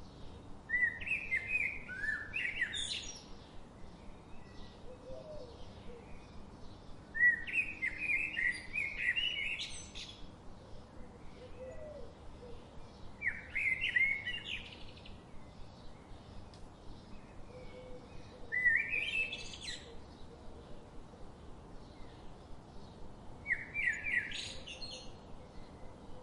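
A songbird singing a phrase of quick, rising chirped notes, repeated five times at intervals of five to six seconds, over a soft steady background hiss.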